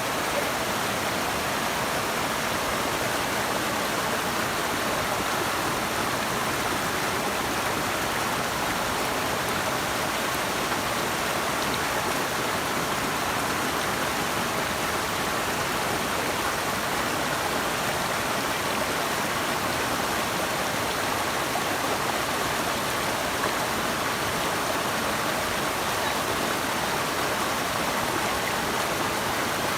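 Steady rushing of flowing water from a river or waterfall, an even hiss with no change or distinct splashes.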